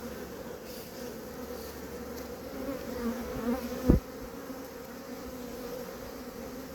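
A swarm of honeybees buzzing as a steady hum around a hive box. A single short, low thump sounds just under four seconds in.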